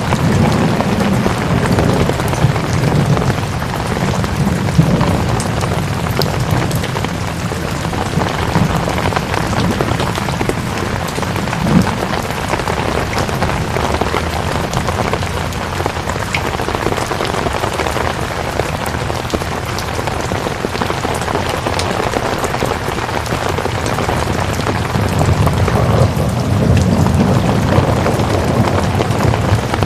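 Steady rain falling, with low thunder rumbles swelling near the start and again near the end.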